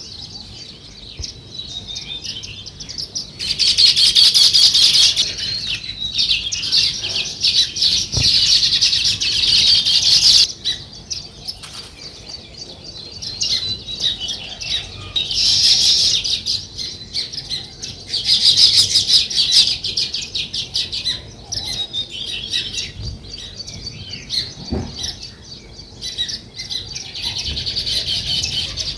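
A flock of sparrows chirping continuously in rapid overlapping chirps, swelling into louder bouts of chattering several times.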